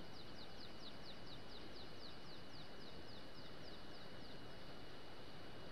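A bird singing a long run of short, high, downward-slurred notes, about four a second, that stops near the end, over steady outdoor background noise.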